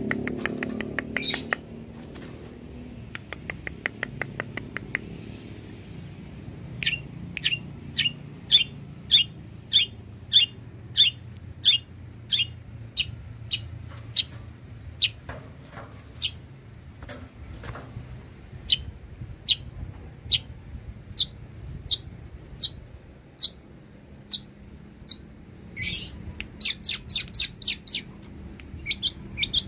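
Long-tailed shrike (cendet) calling: a long run of short, sharp high chirps about two a second, then a quicker burst of chirps near the end, over a faint low hum.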